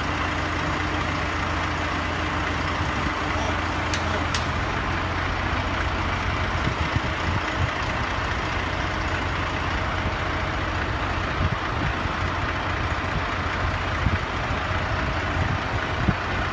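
Heavy diesel engine running steadily with a low hum. Two sharp clicks come about four seconds in.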